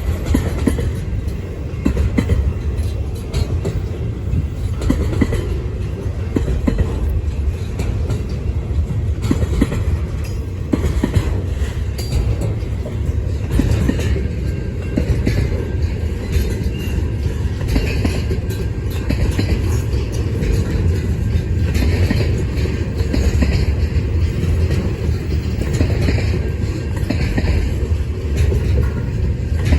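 Freight train running steadily, with a continuous low rumble and frequent short clicks of wheels and wagons on the track.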